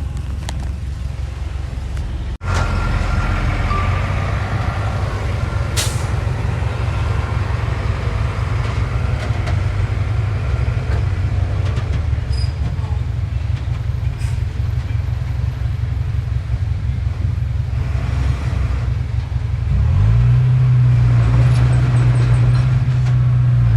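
Diesel engine of heavy earthmoving machinery running with a steady low rumble, with a short hiss about six seconds in. About twenty seconds in, the engine revs up and holds a higher steady note.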